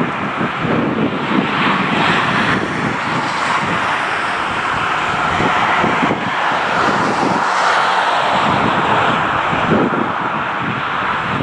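Jet airliner engines running at a steady, loud rushing noise that holds level with small wavers.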